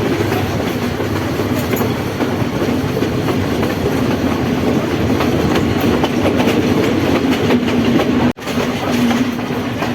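Passenger train running along the track, heard from on board: a steady rumble and rattle of the carriages with the clickety-clack of the wheels over rail joints. There is a momentary break in the sound about eight seconds in.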